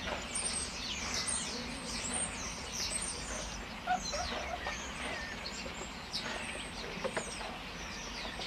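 Small birds chirping and singing steadily, a run of short falling whistles and chirps, over a low steady background hum.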